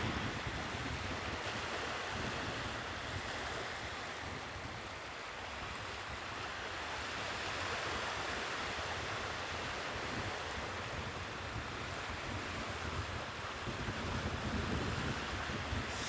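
Sea waves breaking and washing ashore: a continuous rush of surf that swells and eases slowly, with wind buffeting the microphone.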